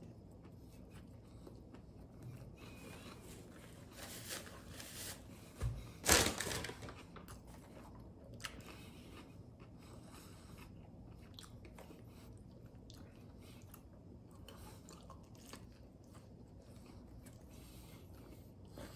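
A man chewing mouthfuls of a fried spicy chicken sandwich with bacon, close to the microphone, with soft crunching throughout and one louder crunching sound about six seconds in.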